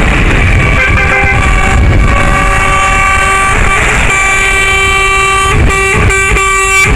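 Lorry air horn sounding, faint at first, then a long held note from about four seconds in that breaks into several short toots near the end, over a steady low rumble.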